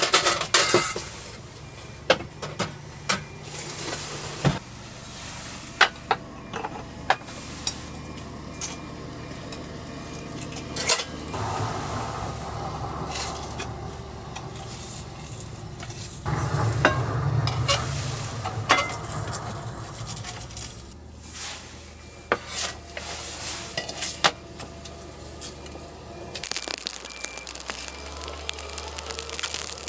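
Cooking sounds: scattered clinks and knocks of utensils and dishes against pans over a steady low hum, with stretches of sizzling about a third and halfway through.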